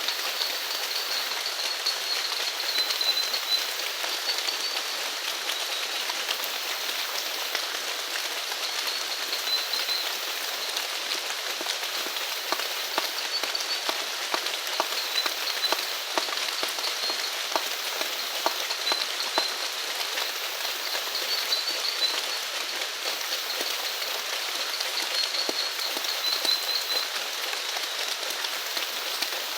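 Steady rain falling, with single drops ticking close by. A short, high trilling call recurs every couple of seconds above the rain.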